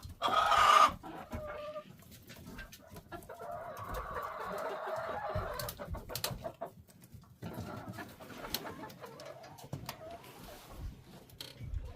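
Backyard chickens clucking and calling, loudest in the first second, with scattered short knocks and clicks.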